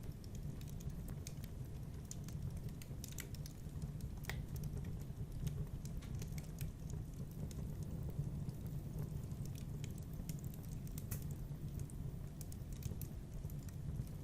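Wood fire burning in a fireplace, crackling: irregular sharp snaps and pops over a steady low rumble of flame.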